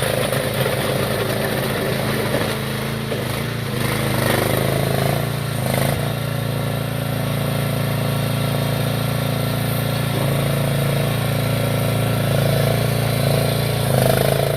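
13.5 hp Briggs & Stratton small engine of a mini tracked loader running steadily.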